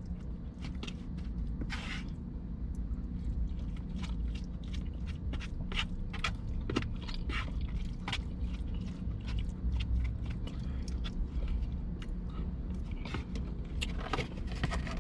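Someone eating chili: irregular small clicks and scrapes of a utensil in a takeout container, with chewing, over a steady low hum.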